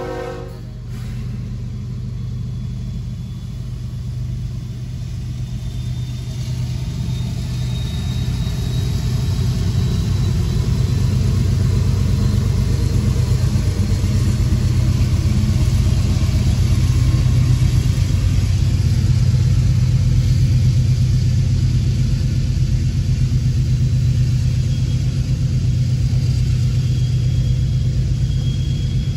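CSX mixed freight train passing a road crossing, heard from inside a car: the end of the diesel locomotive's horn cuts off about half a second in, then a steady low rumble as the GE and EMD diesel locomotives and the freight cars roll by, growing louder over the first ten seconds and then holding.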